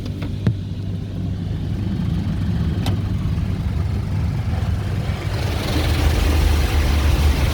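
Automatic car wash machinery running, heard from inside the car as a steady low hum. About five seconds in, a hissing spray builds and grows louder.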